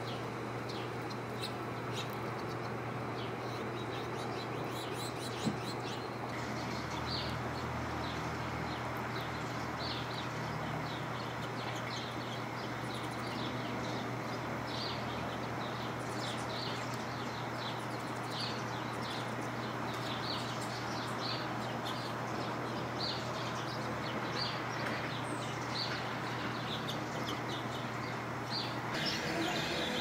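Small birds chirping: a series of short, high chips repeated about once a second or a little faster, with fainter twittering early on. Under them runs a steady low hum and a constant background noise.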